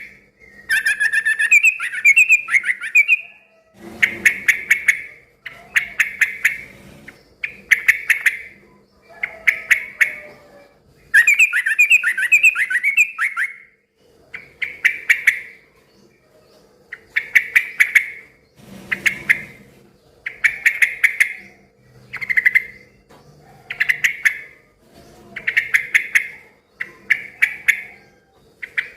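Yellow-vented bulbul (trucukan) singing noisily: short bubbly phrases repeated every second and a half to two seconds, with two longer, rapid warbling runs, one near the start and one around the middle.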